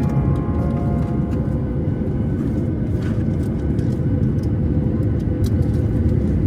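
Cabin noise inside a Boeing 737: a steady low rumble of the engines and airflow, with a faint even hum and scattered light clicks and rattles from the cabin.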